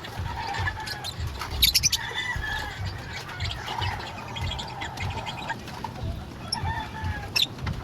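Birds calling in short notes, with a quick flurry of wing flapping about two seconds in and a sharp click near the end.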